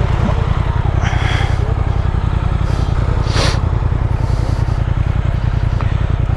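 Triumph Speed Twin 1200's parallel-twin engine idling with a steady, rapid low pulse. Two brief hissing whooshes pass over it, about a second in and in the middle.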